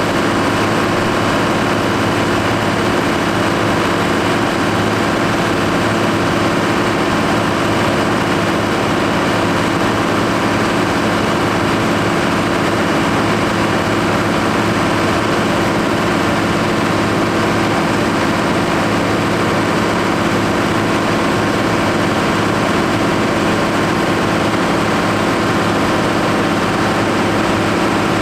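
Case Maxxum 5140 tractor's six-cylinder diesel engine running at a constant, steady speed while driving a PTO dynamometer for a power test.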